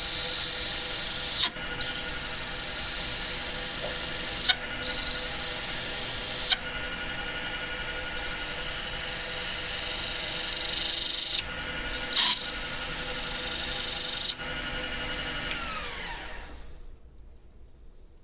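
A power tool motor running steadily while it works on wood with a rubbing, abrasive noise that changes abruptly several times. Near the end the motor is switched off and winds down, its pitch falling until it stops.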